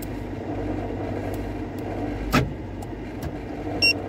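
Car engine idling steadily, heard inside the cabin from under the dashboard. A single knock comes about two and a half seconds in, and a short high beep near the end.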